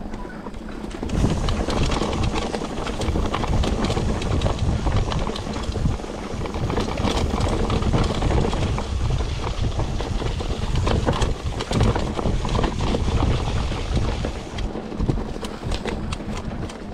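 Mountain bike rolling fast over a rough dirt trail: a continuous rattling and clattering of tyres and bike over bumps, with a heavy low rumble of wind on the microphone, starting about a second in and easing off near the end.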